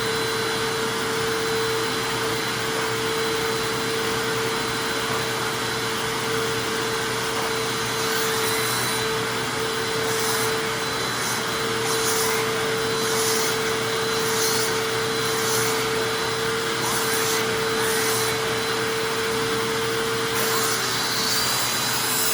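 Hoover Anniversary upright vacuum running with its suction-powered turbo brush attachment: a steady motor noise with a steady whine. From about eight seconds in come repeated short hissing strokes as the brush is worked over the floor. The whine drops out near the end.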